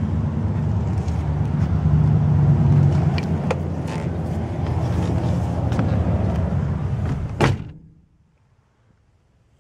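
A vehicle engine idling steadily, with a few light clicks, until a car door shuts with a thud about seven and a half seconds in; after that the hum is cut off and it goes nearly quiet.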